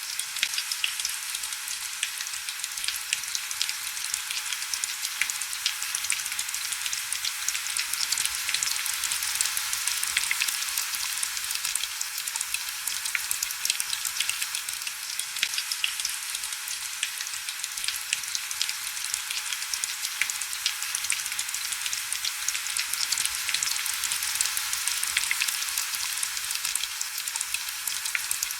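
Steady heavy rain: an even, high hiss thick with fine drop ticks, with almost no low rumble.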